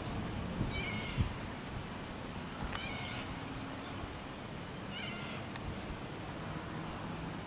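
Meow-like animal cries, three or four short wailing calls about two seconds apart, over a faint low steady hum. A short low thump comes about a second in.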